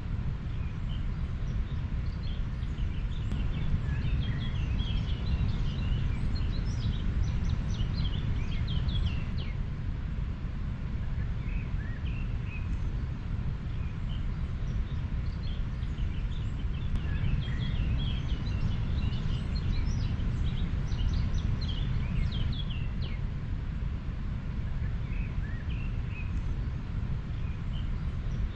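Steady low rush of a river, with many short bird chirps over it that come in two busy spells, one early and one just past the middle.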